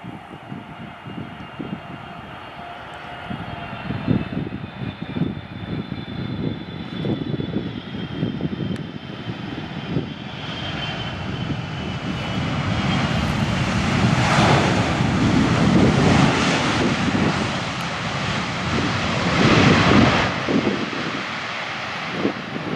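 Jet airliner's engines as it flies past on approach to land: a high whine gliding slowly down, then a loud rumble building up and peaking twice, around the middle and again near the end.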